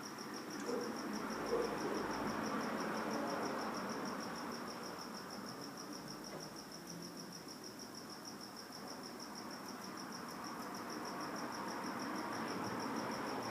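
A cricket chirping steadily in a fast, even pulse over a faint hiss.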